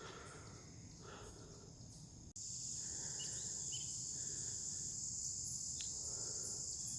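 Crickets and other insects chirring steadily in a high, even drone, faint at first and louder from about two seconds in.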